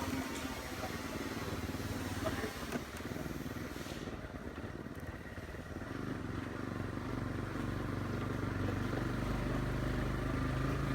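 Motorcycle engine running, with wind rushing over the microphone for the first few seconds; the rush dies away about four seconds in and the engine settles into a steady low idle.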